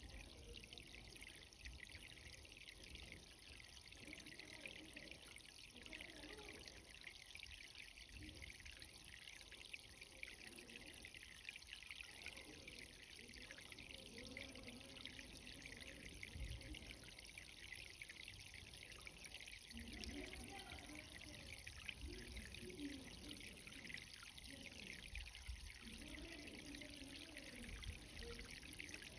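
Faint, steady trickle and hiss of irrigation water running in a cherry tomato garden.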